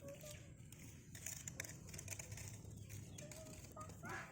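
Chickens clucking faintly: a few short calls, the loudest just before the end.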